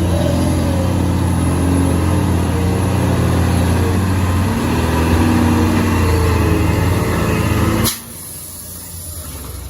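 Heavy diesel engine running loud and close, a deep hum with a pitch that rises and falls a little. About eight seconds in it drops suddenly to a much quieter low rumble.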